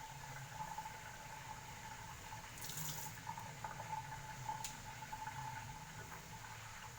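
Water running steadily, with a couple of brief clicks about three and four and a half seconds in.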